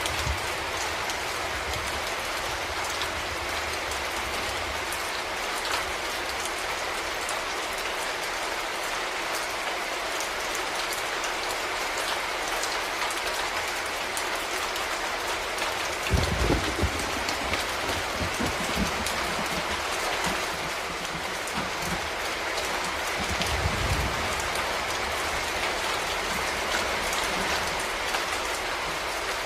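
Steady rain falling on a surface, a dense even hiss with many small drop ticks. Two brief low rumbles rise out of it, one about halfway through and another near three-quarters through.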